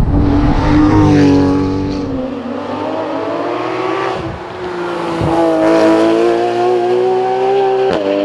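Porsche 911 GT3 RS flat-six engine at racing speed: it eases off for a couple of seconds, then pulls and climbs in pitch again. Near the end a sharp click comes with a sudden drop in pitch, as at a gear change.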